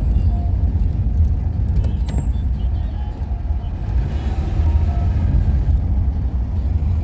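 Steady low rumble of a road vehicle, a car or traffic, with no clear strikes or changes.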